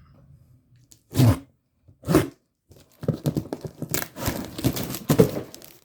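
Hands rummaging through loose parts and packaging: two short loud rustles or knocks, then a few seconds of continuous rustling, scraping and small clicks.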